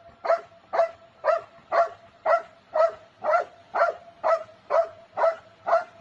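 A dog barking over and over at an even pace, about two short barks a second.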